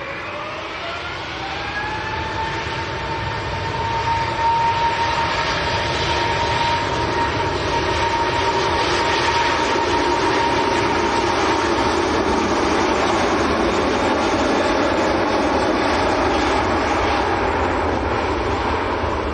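Airbus A380's four jet engines spooling up: a whine rises for about two seconds and then holds steady under a roar that grows louder about four seconds in and stays loud.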